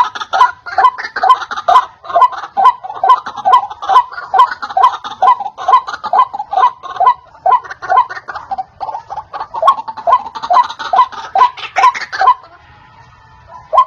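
White-breasted waterhen (ruak-ruak) calling, a fast repeated series of harsh notes at about two to three a second, played as a bird-lure recording. The series breaks off about twelve seconds in and starts again near the end.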